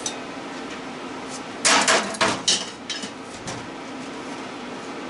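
Metal motor parts clanking and knocking together: a quick run of sharp clanks about two seconds in, a few lighter knocks after, over a steady low hum.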